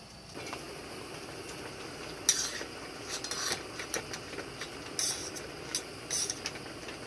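A metal utensil clinks and scrapes against a pot or dish several times while food is stirred or served, over a steady hiss.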